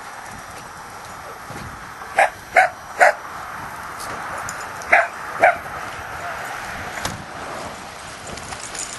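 A dog barking: three quick barks, then two more a couple of seconds later.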